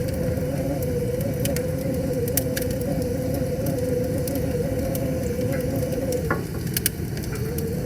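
Wood fire crackling, with scattered sharp pops and a small cluster of louder pops near the end, over a steady low rushing of river water. A steady, slightly wavering hum runs underneath and breaks off for about a second near the end.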